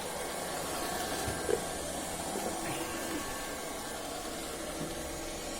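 Robot vacuum cleaner running with a steady whirring hiss from its suction fan and brushes, with a small knock about a second and a half in.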